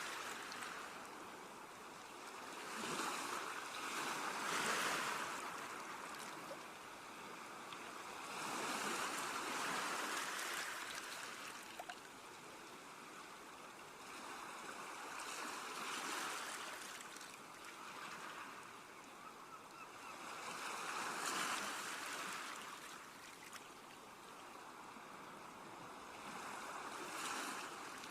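Sea waves washing onto a shore, the surf swelling and ebbing about every five or six seconds.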